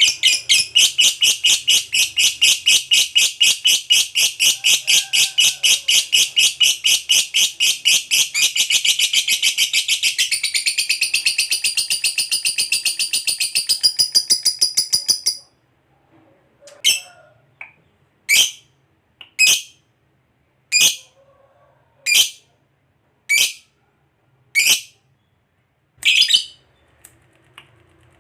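Lovebird giving a long 'ngekek': a rapid chattering trill of shrill notes, about six a second, that breaks off about 15 seconds in. After that come single sharp chirps, about one every second and a half.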